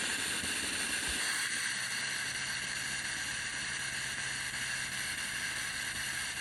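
Steam hissing steadily from the opened boiler release valve of a Breville BES990 espresso machine as the boiler vents its pressure before descaling. A faint low hum joins it about a second in.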